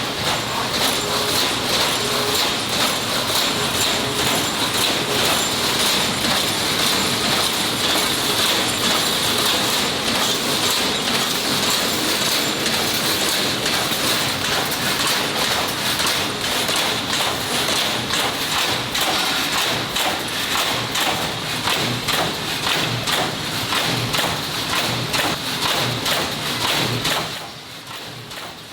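Continuous mechanical clatter of factory work, dense rapid knocks over a steady hiss, which drops off sharply near the end.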